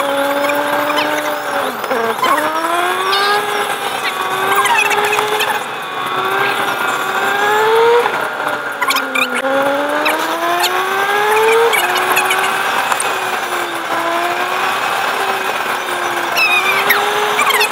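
Car engine heard from inside the car as it accelerates along a lane: its pitch climbs, then drops at each gear change, about three times, before settling into steadier, slightly wavering revs for the last few seconds.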